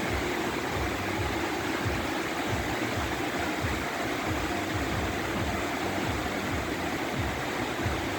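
Steady tropical rain falling, an even hiss with an uneven low rumble underneath.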